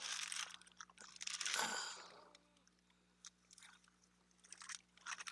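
Rustling and crinkling of craft supplies being handled and sorted, two bursts in the first two seconds, then a few light clicks.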